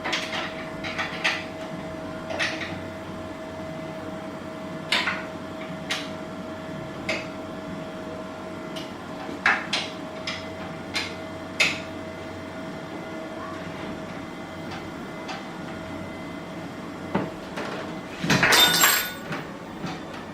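Treadmill running with a steady motor whine and hum while its belt tension is adjusted, with scattered clicks and knocks throughout. A louder, sharper clatter comes near the end.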